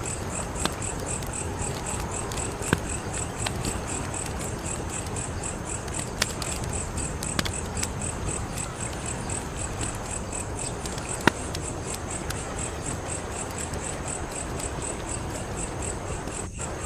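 Wood fire crackling: a steady hiss and rumble with scattered sharp pops, one louder pop about 11 seconds in. A high chirping pulse repeats evenly a few times a second throughout.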